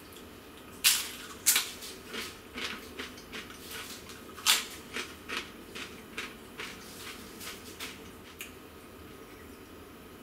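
Chewing a crisp cracker. Loud crunches come at the first bites about a second in and again near four and a half seconds, with a run of softer crunches roughly two or three a second between and after them, which fade out about eight seconds in.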